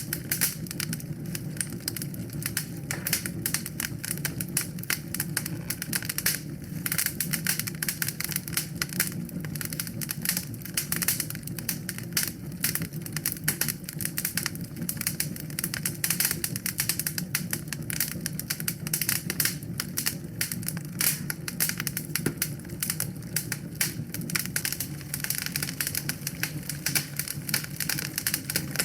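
Wood fire in a fireplace crackling, with dense, irregular pops and snaps over a steady low rumble.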